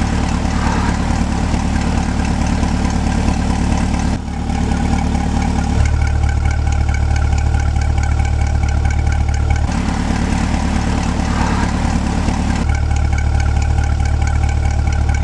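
C8 Corvette's 6.2-litre V8 idling steadily through its performance exhaust set to stealth mode, the quiet valves-closed setting. The low engine note shifts between two tones several times.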